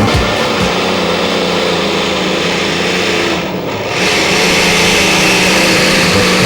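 Competition pulling tractor's engine running hard, its pitch wavering a little. It drops briefly about three and a half seconds in, then comes back louder.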